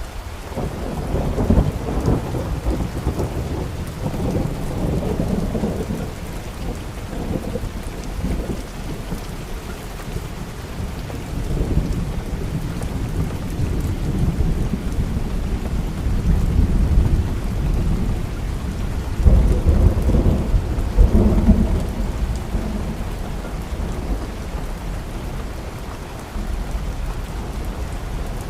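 Steady rain falling with rolling thunder, the rumbles swelling about a second in and again most strongly near the two-thirds mark.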